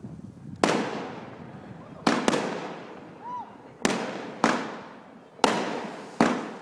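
Fireworks going off: seven sharp bangs at irregular intervals, two of them close together about two seconds in, each trailing off in a short echo.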